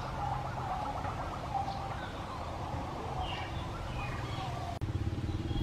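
Several small birds chirping and warbling over a steady low background hum. Near the end the sound cuts off abruptly and gives way to a lower, steadier ambience.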